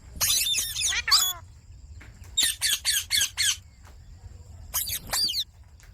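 Ringneck parakeet squawking in three bursts of rapid, shrill, wavering calls.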